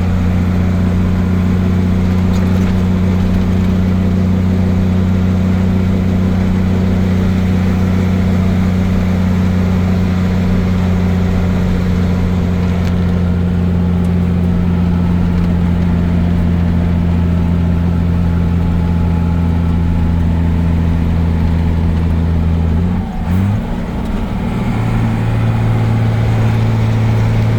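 Truck engine droning steadily under way, heard from inside the cab. Just after 23 seconds the drone dips briefly and comes back at a slightly higher pitch.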